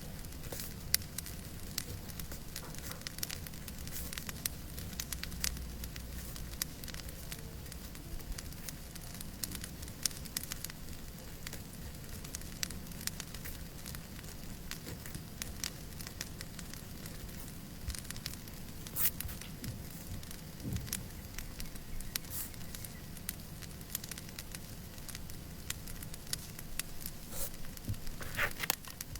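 Wood fire crackling steadily over a soft hiss, with frequent irregular sharp pops and snaps.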